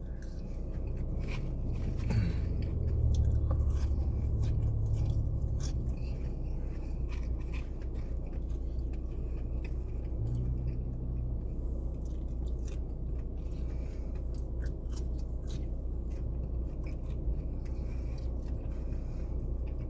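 A person chewing and eating french fries quickly, close to the microphone, with many small wet clicks and mouth sounds, over a low steady hum.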